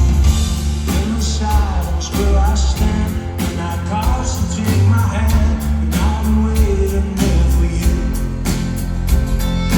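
Live rock band playing loud, amplified music with a steady drum beat, guitars and singing.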